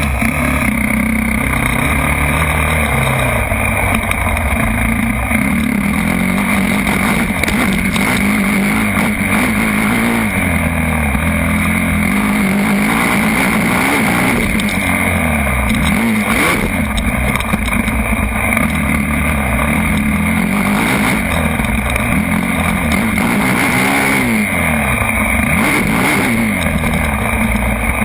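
Motocross dirt bike engines revving up and dropping back again and again, the pitch rising and falling every second or two, over a constant loud noise.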